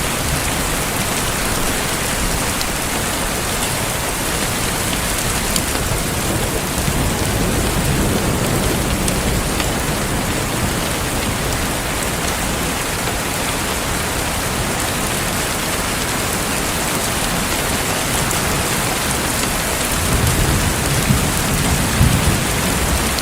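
Steady heavy rain falling, an even hiss of drops on a hard surface. A low rumble swells about eight seconds in and again near the end.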